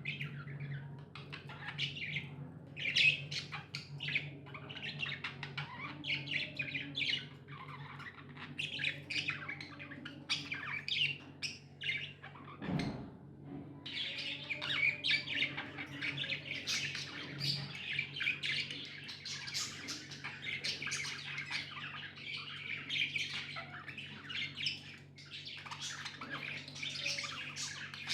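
Budgies chirping and squawking, many quick overlapping calls with no break, over a steady low hum, with one short low thump about halfway through.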